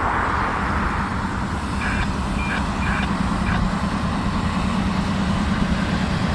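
Diesel locomotive working under load as it passes: a steady low engine rumble and hum. About two seconds in, a few short high beeps or squeals sound.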